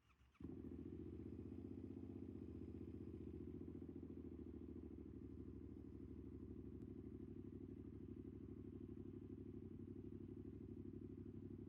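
Yamaha MT-07's parallel-twin engine breathing through an aftermarket full exhaust system, catching suddenly about half a second in and then idling steadily.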